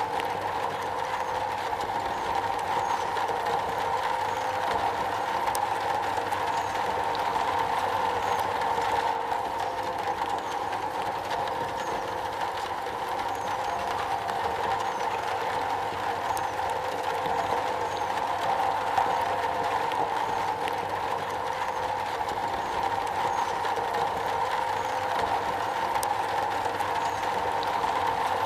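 Rain falling steadily on a metal roof.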